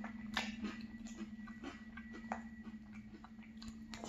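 Crunchy cereal being chewed, with small clicks of a metal spoon against a glass bowl, the sharpest about half a second in. Under it runs a steady low hum from a truck engine.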